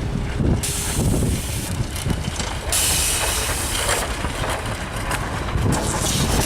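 Staten Island Railway train approaching on the rails, its wheel and rail noise building into a steady rushing hiss from about half a second in, over wind buffeting the microphone.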